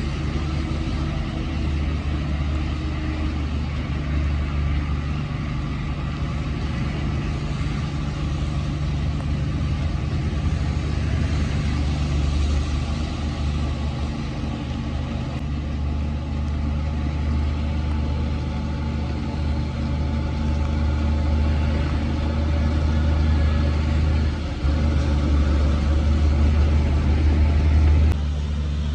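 Heavy diesel earth-moving machinery engine running steadily with a deep, low rumble. There is a brief drop about 24 seconds in and a shift in tone just before the end.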